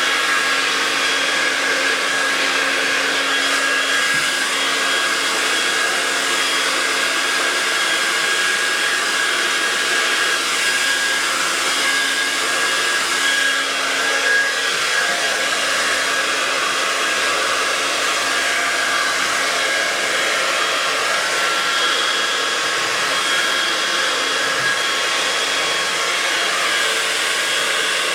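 Handheld hair dryer running steadily, its fan giving a constant whooshing blow with a faint steady whine, used to push wet acrylic paint across a canvas.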